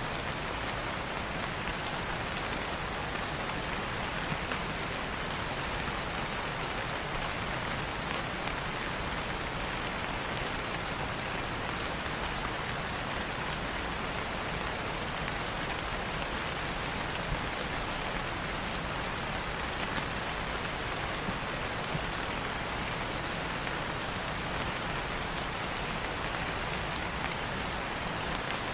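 Steady rain falling on leaves, a constant even hiss with a few faint individual drop ticks.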